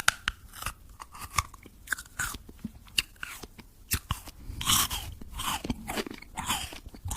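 Close crunching and chewing: a run of irregular short crunches and clicks, with a few longer crunchy bursts a little past the middle.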